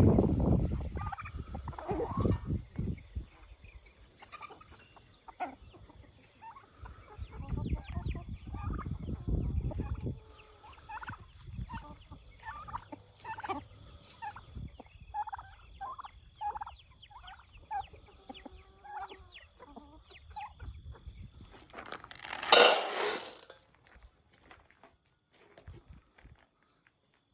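Domestic poultry: a long run of short clucking calls, then a loud, brief gobble from a tom turkey about 22 seconds in. Low rumbling noise on the microphone in the first ten seconds.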